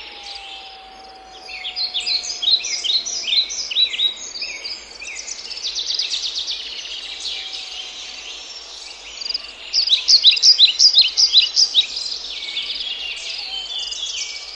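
Several songbirds singing and chirping together, with two louder bouts of quickly repeated down-slurred notes, one about two seconds in and one about ten seconds in.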